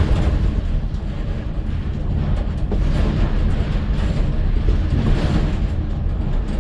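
Vehicle on the road: a steady engine drone with road rumble.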